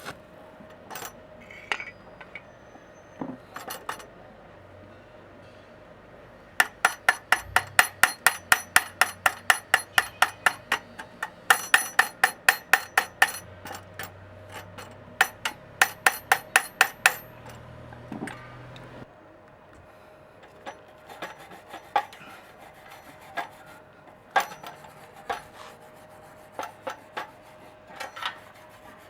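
Hammer striking metal in rapid runs of sharp, ringing taps, several a second, for about ten seconds, then single taps now and then.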